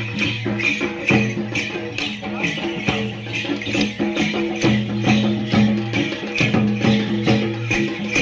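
Music for a Gair folk dance: a fast, steady beat of sharp percussion strokes with jingling bells or rattles, over held low droning notes.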